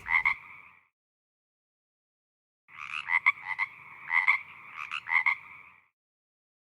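A frog croaking: a short bout right at the start, then, after a pause of about two seconds, a longer run of repeated pulsed notes lasting about three seconds that stops abruptly.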